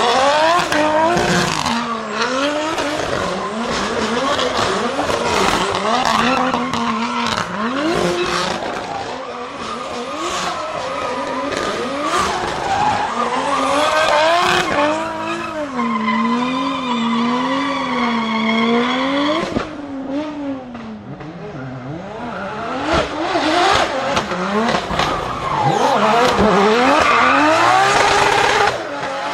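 Racing car engines revving up and down through the gears on track, one car after another. About two-thirds of the way in, a wavering engine note is held for a few seconds and then cuts off suddenly.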